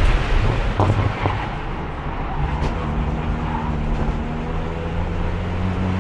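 Race car engine heard onboard, held in fourth gear because the transmission won't shift: the engine note dips as the throttle eases about a second in, then pulls steadily back up with a slowly rising pitch. A few short sharp knocks come in the first three seconds.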